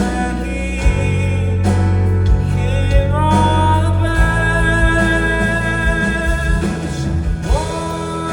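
Indie rock band playing live with singing: long held sung notes over bass and a regular drum beat.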